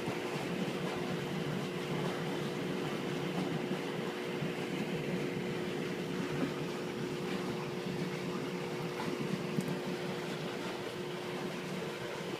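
A NEO TORNADOR aerator running: a steady machine hum over an even rushing churn as its high-speed air jet stirs the water.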